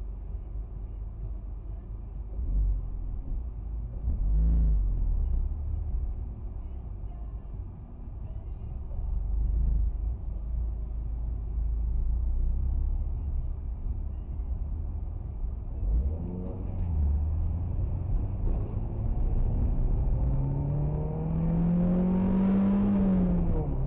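Motor vehicle driving: a steady low rumble of engine and road noise. Near the end an engine note climbs in pitch for about two seconds, then drops away.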